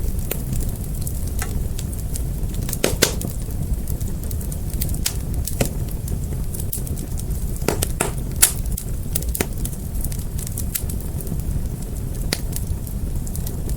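Fire crackling: irregular sharp pops and snaps over a steady low rumble, with a few louder pops.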